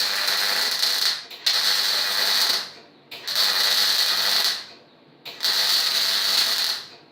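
MIG welder arc sizzling as short stitch welds are laid on a steel frame: four separate welds of about a second and a half each, with short pauses between them, the first already under way.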